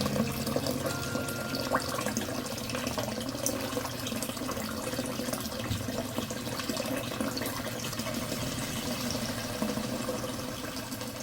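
Steady running water, an even rushing flow.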